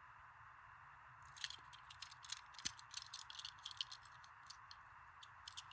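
Quick light clicks and rattles of a small diecast toy car being handled and turned in the hands, starting about a second in, over a faint steady hiss.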